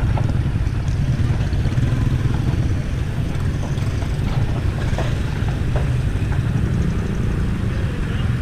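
Steady low rumble of wind buffeting a chest-mounted camera microphone, with faint voices.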